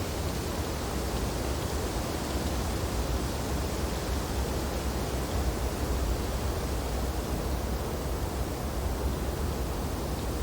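Wind blowing steadily through snowy tree branches: an even rushing noise with a strong deep rumble underneath and no separate events.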